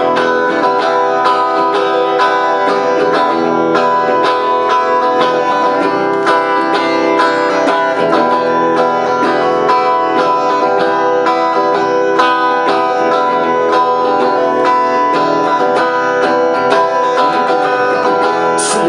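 Guitar playing the instrumental break of a song, a steady run of quickly plucked notes.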